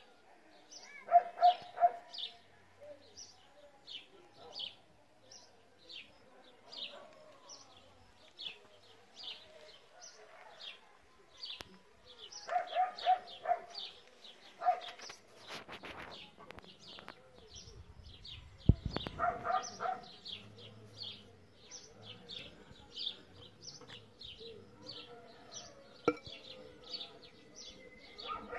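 A small bird chirping over and over, about two short high chirps a second. Three bursts of lower, quicker calls from another animal break in near the start, in the middle and about two-thirds of the way through, along with a brief rattle and a single knock.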